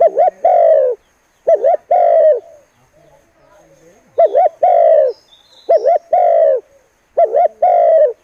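Spotted dove cooing loudly: five repeated phrases about every second and a half, each a quick two-note stutter followed by a longer, falling coo.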